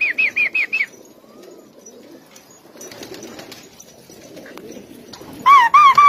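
A bird's rapid chirping calls, about seven short falling notes a second, stop just under a second in. Softer shuffling and wing-flapping from pigeons moving about on the floor follows. Near the end a louder, lower-pitched series of chirps starts at the same quick rate.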